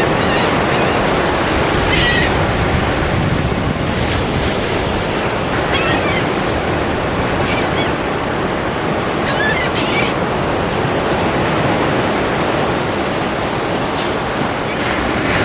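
Ocean surf washing steadily onto a shore, a continuous rushing noise. A few short, high calls sound briefly over it.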